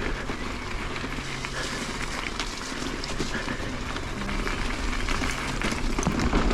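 Mountain bike rolling over a wet, rocky gravel trail: steady tyre crunch with scattered clicks and knocks from stones and the bike, getting a little louder towards the end.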